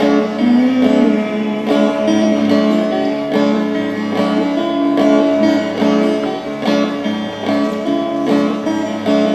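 Instrumental break of a live song: guitars playing the accompaniment with regular strums and held chords, no voice.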